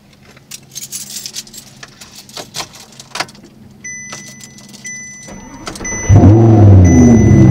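Keys jangling and small clicks at the ignition, with a thin steady high tone joining about four seconds in; about six seconds in the Audi R8's engine starts loudly, its revs flaring and then falling back toward idle.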